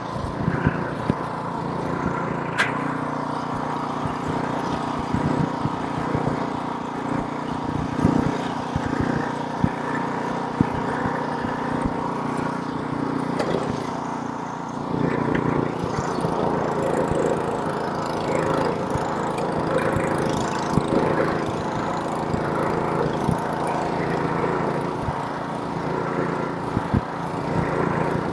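Small gasoline engine of a snowblower running steadily while clearing snow, with scattered sharp clicks and knocks. The engine note shifts about halfway through.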